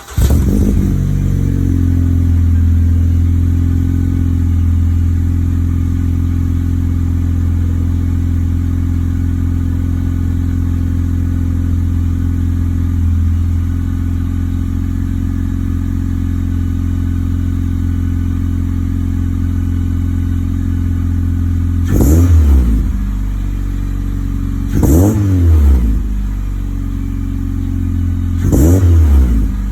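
Honda Civic FB 2.0-litre four-cylinder through an aftermarket header and Mugen titanium exhaust, flaring as it catches after starting and then idling steadily. Near the end the throttle is blipped three times, each a short rev that rises and falls back to idle.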